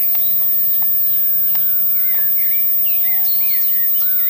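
Steady outdoor background noise with small birds chirping repeatedly, and faint tones that slowly fall and rise again.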